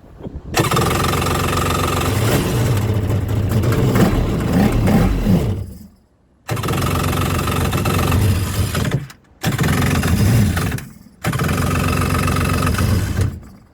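Electric starter cranking the two-stroke engine of a 1998 Yamaha LS2000 jet boat in four attempts, the first about five seconds long, the others shorter with brief pauses between them.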